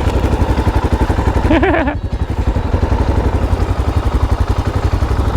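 Motorcycle engine running steadily at road speed, its low exhaust pulses even throughout. A brief wavering, pitched sound comes in about one and a half seconds in.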